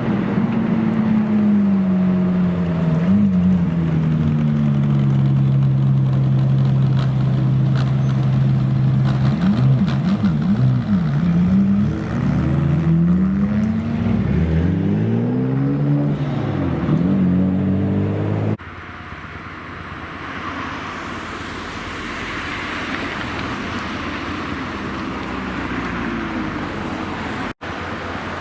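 Supercar engines running, a steady note at first, then several revs rising and falling as cars pull away and pass. About eighteen seconds in the engine sound cuts off abruptly to a steady hiss.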